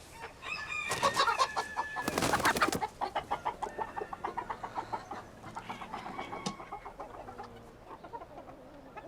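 Bantam chickens clucking and squawking. A loud, harsh burst of calls about two seconds in is followed by a long run of quick clucks that grow fainter.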